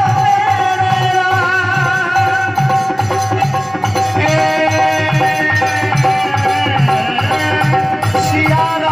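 Instrumental interlude of ragini folk bhajan music: a sustained, ornamented melody line over a steady hand-drum rhythm.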